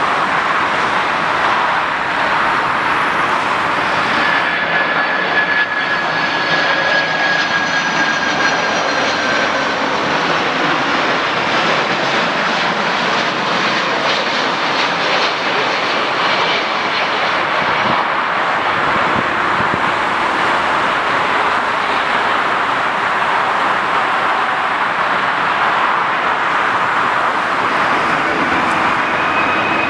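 Aircraft engines of a landing airliner: a loud, steady rush with faint high whining tones that slide slowly down in pitch.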